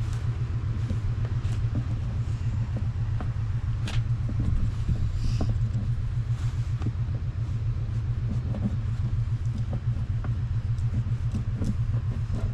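An engine idling steadily, a low pulsing rumble, with scattered small clicks and taps of handwork over it.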